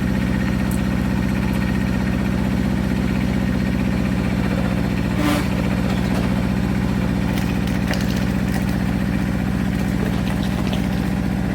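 Wood-Mizer LX25 sawmill's engine running steadily at an even speed, with a brief louder rasp about five seconds in.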